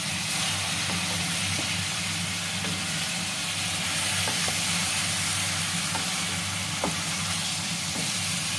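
Potato slices sizzling steadily in hot oil in a metal wok, stirred with a wooden spoon that gives a few light taps.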